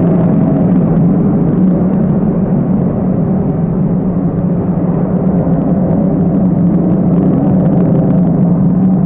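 Tupolev Tu-134AK jet airliner's Soloviev D-30 turbofan engines at takeoff power: a steady, deep rumble with little high whistle.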